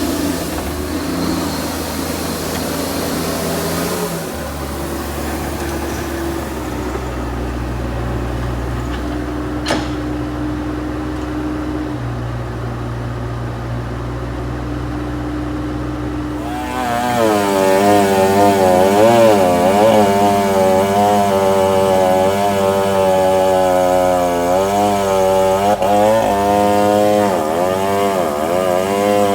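A heavy diesel engine of the logging machinery runs steadily at a low pitch. About two-thirds of the way in, a chainsaw takes over at high revs, its pitch repeatedly dipping and rising as it works through wood.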